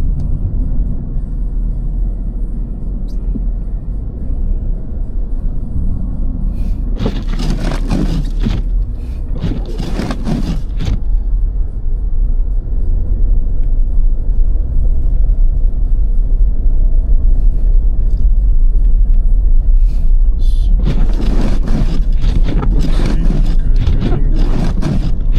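Steady low rumble of a car's tyres and engine heard from inside the cabin while driving on snowy roads, with two spells of louder hissing, about a third of the way in and again near the end.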